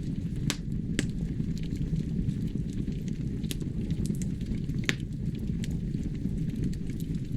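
Wood fire burning in a fireplace: a steady low rumble of flames with irregular sharp crackles and pops, a few louder ones standing out.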